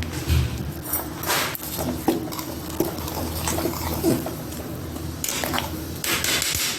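A spoon stirring rice into a pot of boiling coconut milk and vegetables, with a few short scraping swishes.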